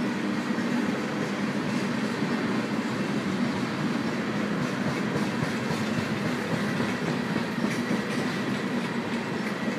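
Freight train of tank cars rolling past: a steady noise of steel wheels on the rails, with a few light clicks late on.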